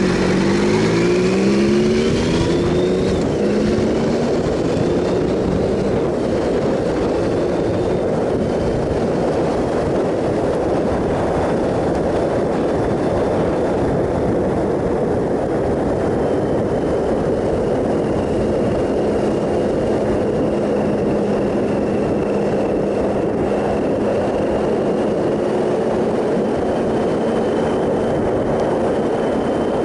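2007 Triumph Sprint ST 1050's three-cylinder engine revving up under acceleration over the first few seconds, then holding a steady cruising note. A steady rush of wind and road noise runs under it.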